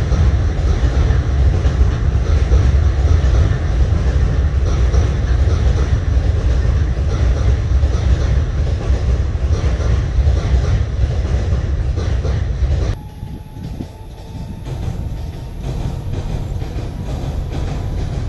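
Keisei electric train rumbling steadily across a river railway bridge, its wheels clacking over the rail joints. The sound drops suddenly about two-thirds of the way through, and a quieter rumble of another train crossing continues.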